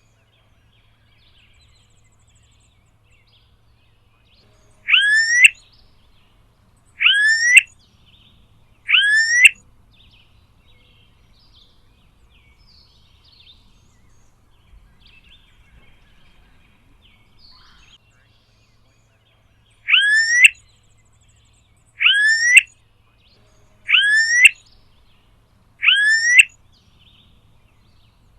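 Smooth-billed ani calling: a loud, whistled call rising in pitch, about half a second long. It comes three times about two seconds apart, then after a pause of about ten seconds four more times at the same spacing.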